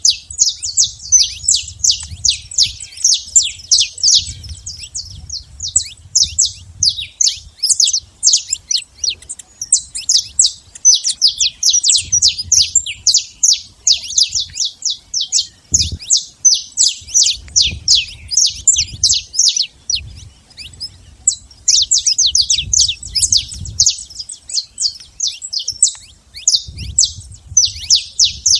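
Saffron finch singing: long runs of quick, sharp chirps, with short pauses between phrases.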